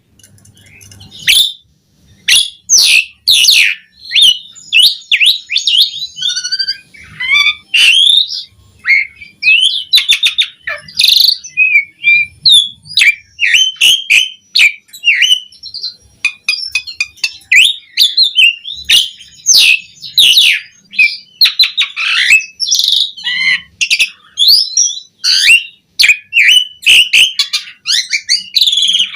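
Asian pied starling singing a fast, varied song of chattering notes, whistles and clicks, almost without pause after a brief lull at the start.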